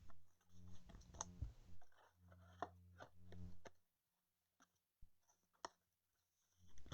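Faint clicks and light handling noise of trading cards being flipped through by hand, a few scattered ticks against an otherwise nearly silent room.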